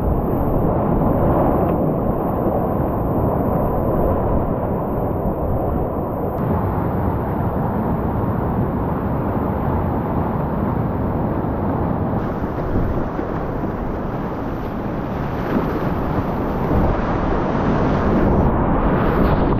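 Whitewater rapids rushing loudly and steadily, heard close up through an action camera's microphone. The sound is muffled and low, with a few abrupt changes as the shot switches.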